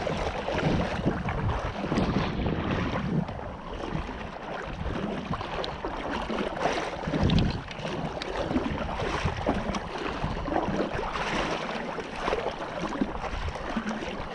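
Wind buffeting the microphone over the wash of water, rising and falling unevenly.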